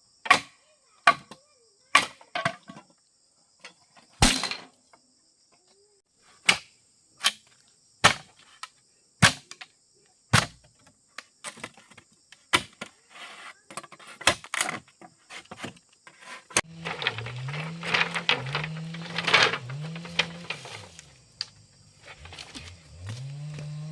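A hand tool striking wood in single sharp blows, roughly one a second, as in building work. After about 16 s the blows come faster and more jumbled, over a low droning sound that swoops up and down over and over.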